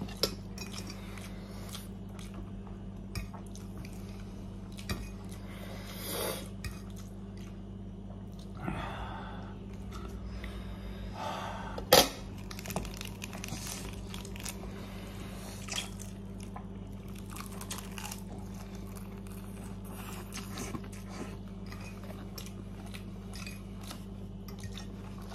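A person eating spicy ramen: chewing with occasional short noisy sounds and clicks of dishes or utensils, the sharpest click about twelve seconds in. A steady low hum runs underneath.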